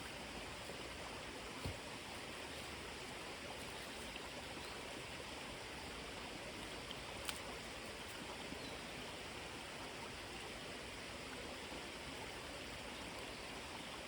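Steady rushing of a small stream, with two faint clicks, about two and seven seconds in.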